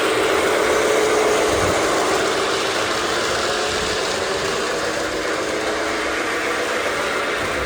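Lionel O-gauge toy train running on its track: a steady mechanical whir from the locomotive's motor and its wheels on the rails, with a constant hum.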